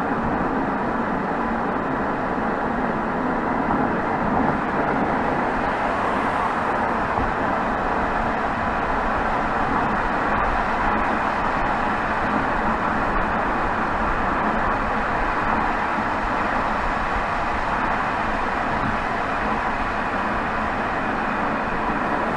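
Exhaust of a BMW 320xd's 2.0-litre four-cylinder turbodiesel running steadily at highway cruise, picked up by a microphone right beside the tailpipe, mixed with a steady rush of road noise.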